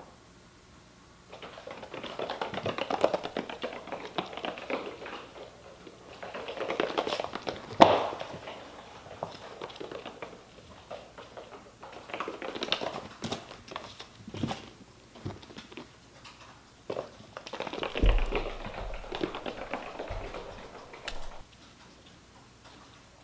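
Kittens' paws pattering and scrabbling in play, in four bursts of quick taps and scratches with short pauses between. A sharp tap about 8 s in and a low thump about 18 s in stand out.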